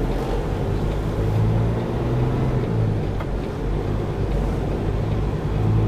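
Semi truck's diesel engine running steadily with a low, even hum.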